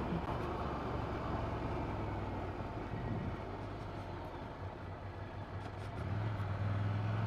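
Ducati Monster 797's air-cooled L-twin engine running steadily while riding, with a low, even engine note over road and wind noise; it eases off in the middle and gets louder again near the end.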